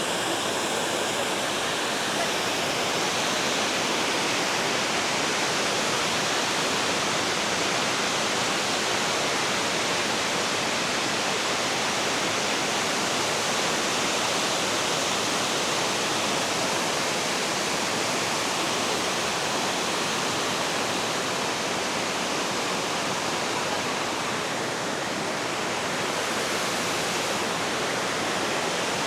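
Batareisky waterfall rushing steadily: an even, unbroken rush of falling water with no change in level.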